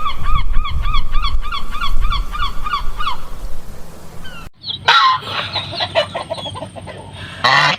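Seagull calling in a rapid series of sharp, repeated yelping calls, about four a second, for roughly three seconds. After a short break, a busier mix of many overlapping bird calls starts.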